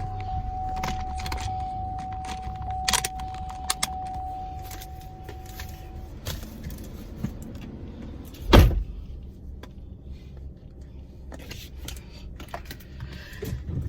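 Someone getting into a car: keys jangling and small clicks, with a steady electronic tone for about the first six seconds. A car door shuts with a loud thump about eight and a half seconds in.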